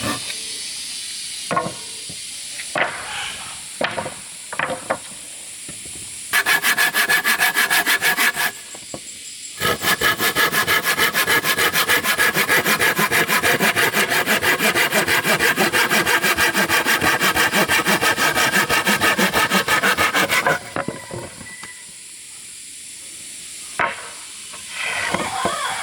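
Hand saw cutting through wood with fast, even back-and-forth strokes: a short bout, a brief pause, then a long steady run of strokes. A few scattered knocks come before the sawing.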